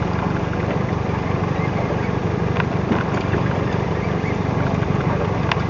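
Fishing boat's engine running steadily with a low drone, and a few faint clicks over it.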